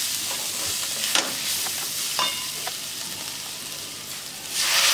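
Onions and spices frying in mustard oil in a metal kadhai, a steady sizzle with a few light knocks and a short ring of utensils against the pan. Near the end the sizzle jumps suddenly louder as chopped tomatoes are tipped into the hot oil.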